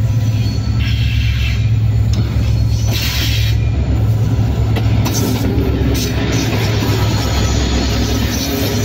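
Diesel locomotive drawing a passenger train close past, its engine a loud, steady low drone. Near the end the coaches roll by.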